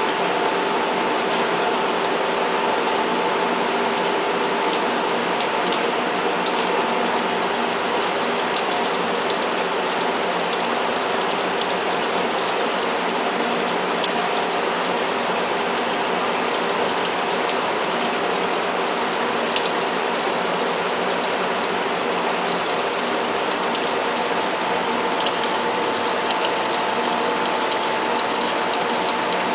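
Five-axis CNC die-sinking EDM machine running, giving a dense, unbroken crackle over a steady hum of several even tones.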